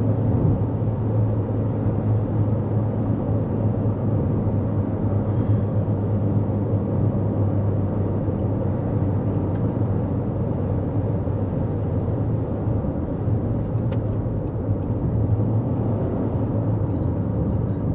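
Steady road and engine noise inside the cabin of a 2024 Toyota Corolla Cross cruising on the highway: a constant low hum with tyre roar.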